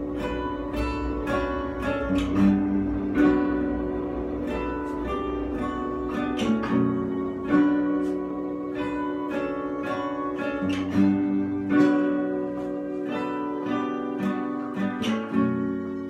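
Acoustic guitar playing an instrumental intro: a steady run of picked and strummed chords, with no singing.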